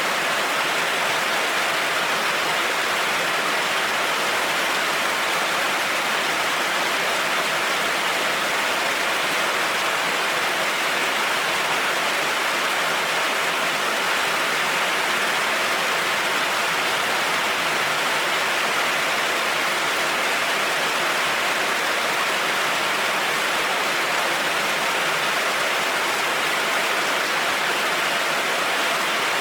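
Heavy rain falling steadily on a road, an even hiss without any thunderclaps.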